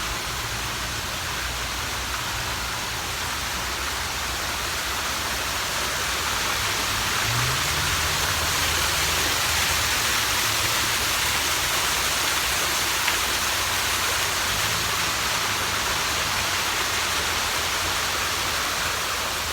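Water falling steadily from a man-made memorial waterfall into its shallow pool, an even rushing hiss that grows a little louder over the first several seconds.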